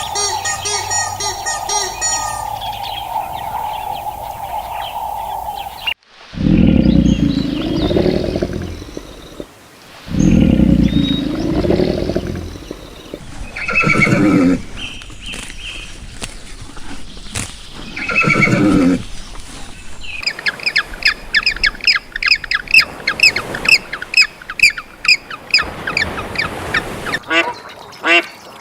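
Farm animal calls, several different ones, one after another. First a steady tone with chirping over it; then, after a sudden cut about six seconds in, two long, loud, low calls; then two shorter, higher calls; and near the end a quick run of high, rapid chirps.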